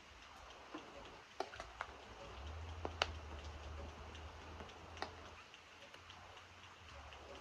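Scattered raindrops dripping and ticking at irregular intervals over a soft, faint rain hiss. A low hum comes in about two and a half seconds in and fades after about five seconds.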